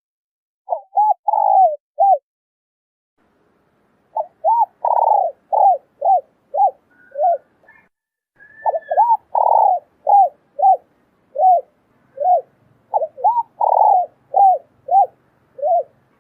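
Female spotted dove cooing: runs of short, arched coos, about two a second, some drawn out longer. After the first four coos there is a pause of about two seconds before the calling resumes.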